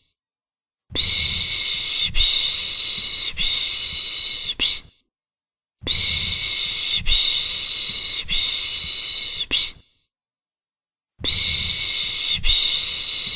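A person's voice making the Turkish 'piş piş' shushing sound used to soothe a baby to sleep. The hissing shushes come in runs of about four, each run lasting about four seconds, with about a second of silence between runs, repeating evenly.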